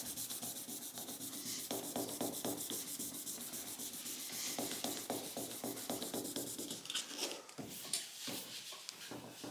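Hand sanding of automotive clear coat with 1000-grit sandpaper in quick, even back-and-forth strokes, levelling a paint run. Near the end the strokes turn uneven and broken.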